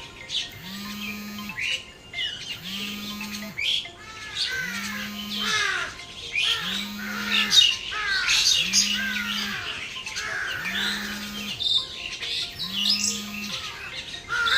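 Small birds chirping and squawking, many short calls overlapping and sliding downward in pitch. A low steady hum comes and goes about every second and a quarter throughout.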